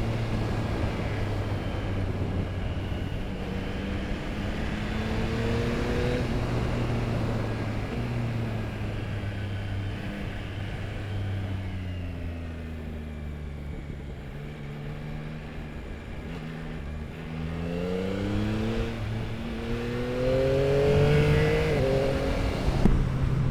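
Yamaha R9's 890 cc inline-three through an Akrapovic exhaust, ridden on the road: the revs climb, then fall away on the overrun through the middle, and rise again to a louder pull near the end, with wind rushing past.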